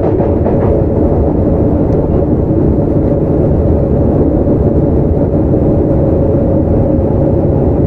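Onboard running sound of a Sotetsu 9000 series electric train, with Hitachi IGBT VVVF control and right-angle cardan drive, travelling at speed: a steady low rumble of wheels on rail and running gear with a faint steady whine.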